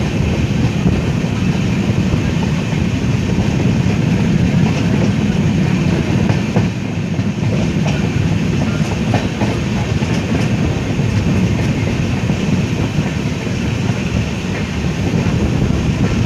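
Passenger train running along the track: a steady rumble of coach wheels on the rails, with a few sharp clicks over rail joints in the middle of the stretch.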